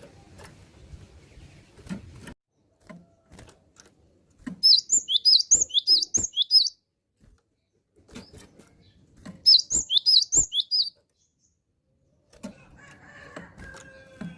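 Cinereous tit (gelatik batu) singing in two bursts of rapid, high, repeated chirping notes, with scattered light knocks between them.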